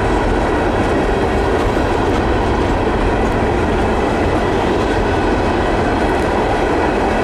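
Loaded Herzog ballast hopper cars of a freight train rolling past at slow speed: a steady, even rumble of wheels on rail, with light clicking of the wheels over the rail joints.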